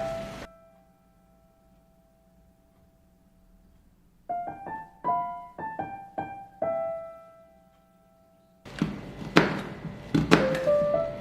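Background piano music, single notes ringing and fading, with a pause of a few seconds early on. Near the end a loud stretch of noise with sharp clicks comes in under the piano.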